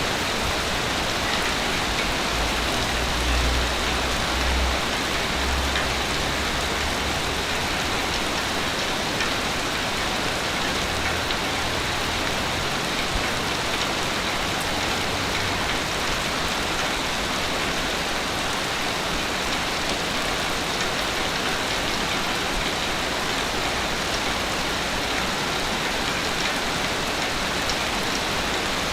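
Ocean surf on a beach: a steady rushing wash of breaking waves, with a low rumble of heavier surf a few seconds in and again around twelve seconds.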